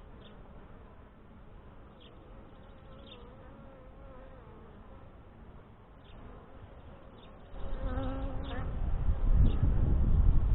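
Honey bees buzzing faintly around an opened hive, with a louder, closer buzz starting about seven and a half seconds in. A low rumble joins near the end.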